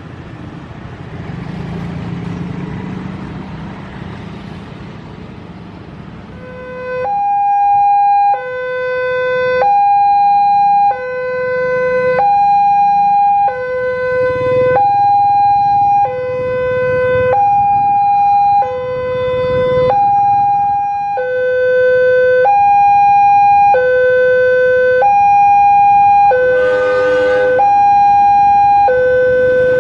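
Railway level-crossing warning alarm sounding, a loud electronic two-tone alternating steadily between a high and a low tone, each held about a second and a quarter; it starts about seven seconds in, over road traffic. Near the end a brief harsh blare cuts across it.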